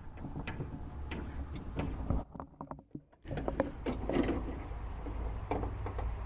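Hand work on a car door: irregular clicks, knocks and rattles of door parts being handled, over low rumbling handling noise, with a short break a little over two seconds in.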